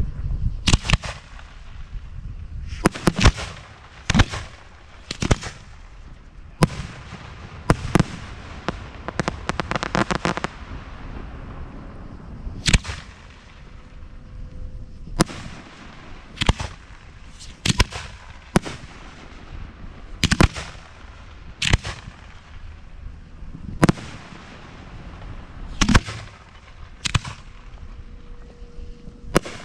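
Display fireworks going off: about twenty sharp bangs at irregular spacing, one every second or two, with a stretch of dense crackling about ten seconds in.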